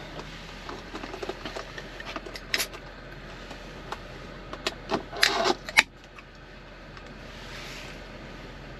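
Takeout packaging and plastic utensils being handled: scattered rustles and clicks, busiest about five seconds in and ending with a sharp click, over a steady low hum.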